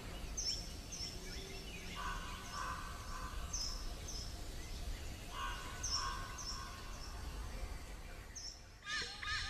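Forest ambience with birds calling: short, high chirps repeating in small groups throughout, and twice a lower, warbling call lasting about a second.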